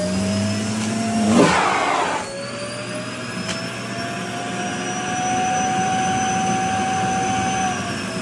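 Vacuum cleaner motor running with a steady whine whose pitch drifts up and down as the fabric of a dress is drawn into the nozzle. About a second and a half in there is a loud rush of air, after which the whine drops, then slowly climbs again and falls off near the end.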